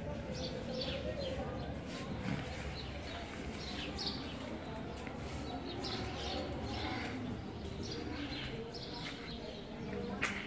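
Small birds chirping: many short, high chirps repeating all the way through, over a low steady rumble. A single sharp click just before the end is the loudest sound.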